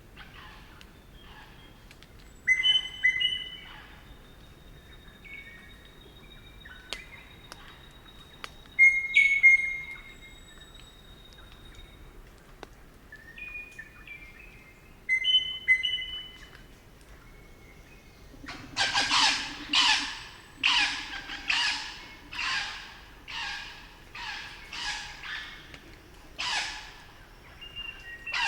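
Crimson rosellas calling: scattered short, clear whistled notes, then, about two-thirds of the way through, a run of about ten loud, harsh screeching calls, roughly one a second.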